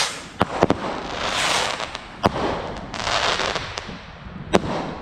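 New Year's Eve fireworks going off: four sharp bangs, two close together about half a second in, one past the two-second mark and one near the end, with washes of hissing noise between them.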